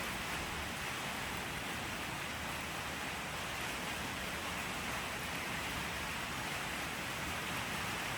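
Steady rain falling: an even, continuous hiss of many drops with no single drop or thunderclap standing out.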